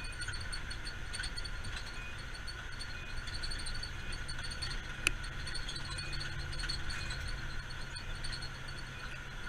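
Fire engine running, heard from inside the cab: a steady low drone of engine and road noise with a faint steady high whine. A single sharp click about five seconds in.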